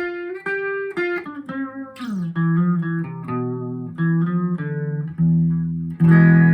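Electric guitar played through a Vox AV15 valve amp with its chorus effect on: a run of single picked notes falling in pitch, then lower notes, ending on a loud held chord near the end.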